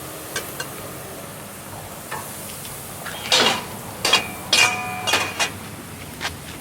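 Metal grilling tools clinking and clanking against the grill as the steaks are handled: a run of sharp clinks, loudest from about three seconds in, one of them ringing with a metallic tone.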